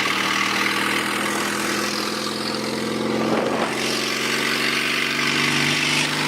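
A vehicle engine running steadily at about idle, its pitch shifting briefly about halfway through.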